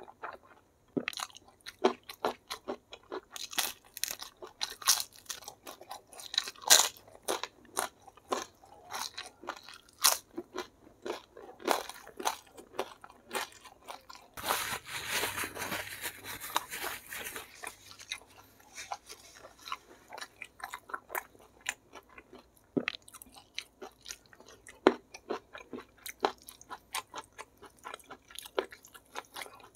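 Close-miked mukbang eating by hand: a person chewing and crunching food, with many short, sharp crunches. About halfway through comes a denser stretch of noisy crunching lasting a few seconds.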